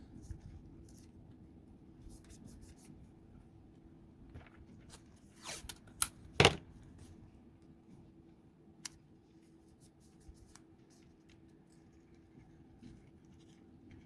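Small handling noises of a battery pack and its wires being worked on by hand: scattered light clicks and rustles, with a few sharp, louder scrapes or snaps around six seconds in.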